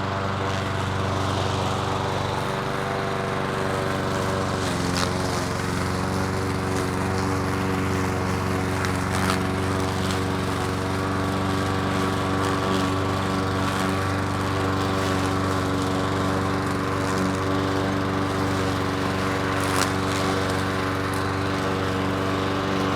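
Petrol lawn mower engine running steadily, its pitch shifting slightly about five seconds in, with a few sharp clicks.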